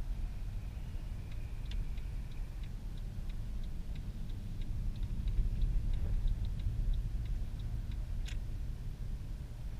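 Inside a tuned Mercedes C63 AMG on the move: a steady low V8 drone with road noise. Over it, after a brief thin tone about a second in, comes an even run of quick cabin ticks, about four a second, that stops about eight seconds in. A single sharp click follows.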